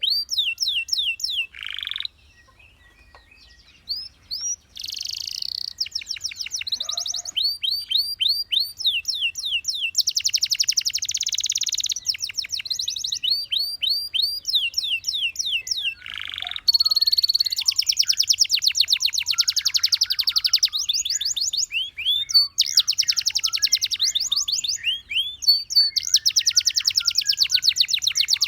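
Domestic canary singing: long runs of rapidly repeated, falling whistled notes and fast buzzy trills. It pauses for about two seconds near the start, then sings on almost without a break.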